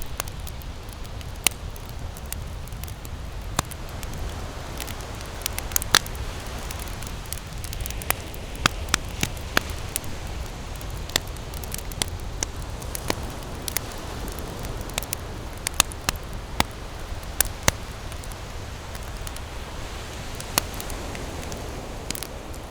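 Wood campfire burning, with irregular sharp crackles and pops over a steady low rushing noise.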